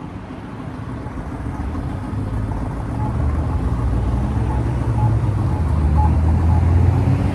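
Low engine rumble of a motor vehicle in traffic, growing steadily louder through the stretch as it comes closer or pulls away under power.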